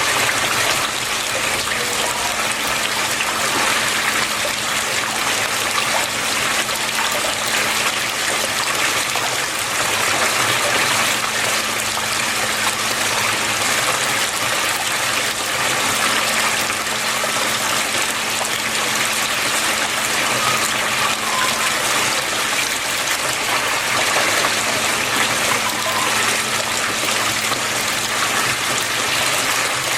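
Water flowing and splashing steadily, with a faint low steady hum underneath that fades out near the end.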